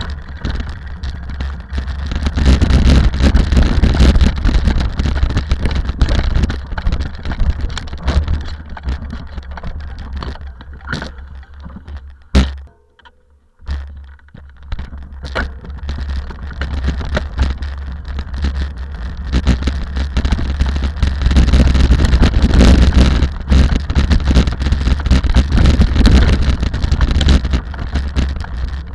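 Rally car running hard, loud engine and road noise with heavy low rumble. The sound cuts out for about a second a little past the middle, then returns.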